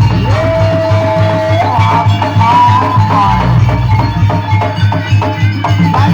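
Jaranan gamelan music: a steady, fast beat of drums and struck percussion under a sustained melody line that slides up at the start, holds one note, then wavers and bends higher.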